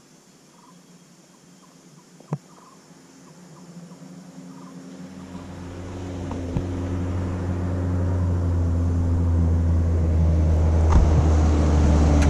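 A car's engine running on a gravel road, a low rumble that builds steadily louder from about five seconds in. A single sharp click comes near two seconds.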